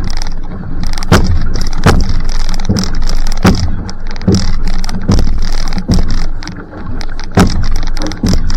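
Va'a outrigger canoe paddle strokes at sprint pace, a sharp catch in the water about every 0.8 seconds, over a steady rush of water.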